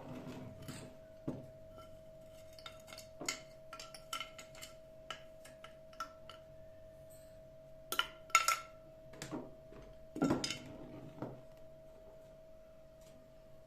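Dishes and glassware clinking and knocking as they are handled, in scattered sharp clicks with the loudest clusters about eight and ten seconds in, over a steady faint hum.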